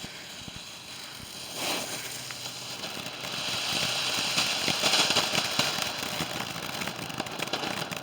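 Small firework going off, hissing and crackling; it starts about a second and a half in, builds to its loudest around the middle, then dies down.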